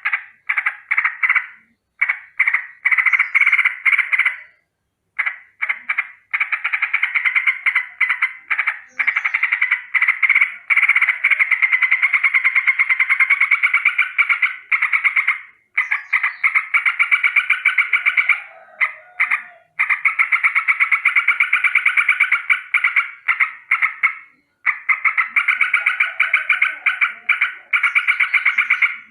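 Sooty-headed bulbul (trucukan) giving a rolling alarm call: long runs of rapid, evenly repeated harsh notes, broken by a few short pauses.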